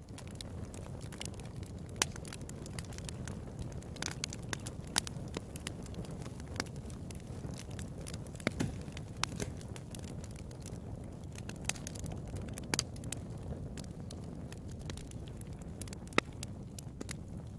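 Fire burning in a fireplace: a steady low rumble with irregular sharp crackles and pops, a few of them louder.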